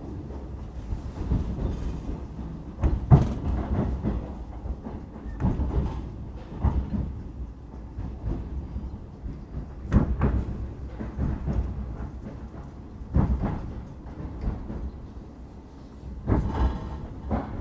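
Passenger train running on the rails, heard from inside the carriage: a steady low rumble with irregular knocks and clanks of the wheels and carriage.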